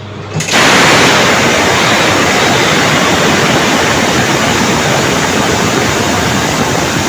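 Express passenger train rushing past close by at high speed: a loud, steady roar of wheels and air that starts suddenly about half a second in.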